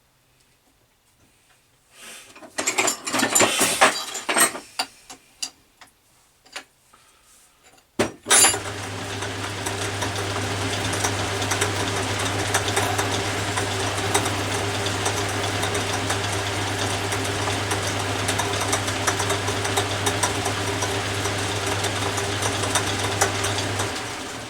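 Metallic clatter and clicks of tooling being handled, then a sharp click and the Atlas 10 metal lathe starting and running steadily with a low electric-motor hum while a centre drill is fed into brass; it runs down near the end.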